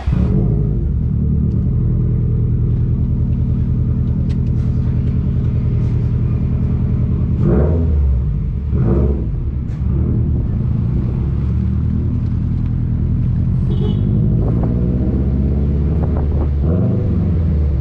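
2021 Subaru WRX STI's turbocharged flat-four running through an RK Titanium titanium catback exhaust, with a steady low rumble at low revs. The revs briefly rise and fall twice about seven to nine seconds in, and once more near the end.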